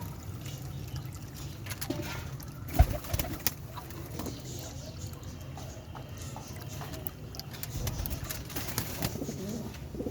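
Pigeons cooing over a steady low rumble, with a sharp knock almost three seconds in and a few smaller clicks just after it.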